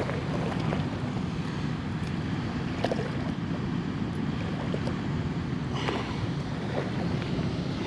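Steady rushing noise of wind and flowing floodwater, with a few faint clicks and taps scattered through.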